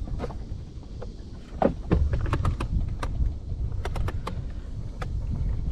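Scattered sharp clicks and knocks of hands working at a trolling-motor battery's terminals and cables in a small boat, over a steady low wind rumble on the microphone.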